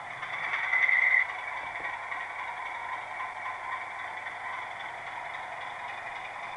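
DCC sound decoder in a Bachmann OO gauge Class 25 model diesel locomotive plays its diesel engine sound through the model's small speaker. A louder, higher sound swells in about half a second in and cuts off suddenly just after one second.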